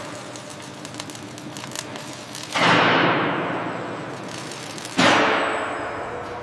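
Two heavy metallic clangs, about two and a half seconds apart, each struck hard and ringing away over a couple of seconds, over a low steady industrial background with small ticks.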